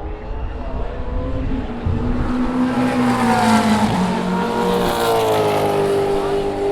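Racing car engines passing at speed: their notes swell in, sliding in pitch as the cars go by, and are loudest in the middle and later part.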